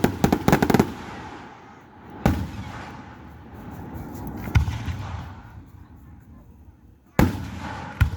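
Aerial fireworks bursting: a quick volley of sharp cracks in the first second, then single heavy booms about two seconds in, about four and a half seconds in, and twice near the end, each trailing off in a low rumbling echo.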